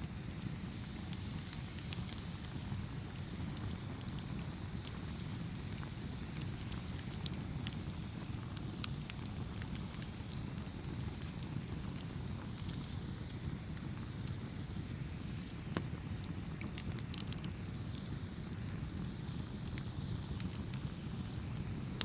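Campfire burning: a steady low rumble of the flames with scattered sharp crackles and pops of burning wood, a few louder pops among them.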